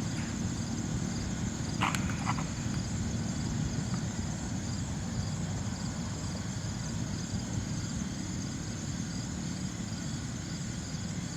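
Jet aircraft taking off, its engines a steady low rumble in the distance. A brief click about two seconds in.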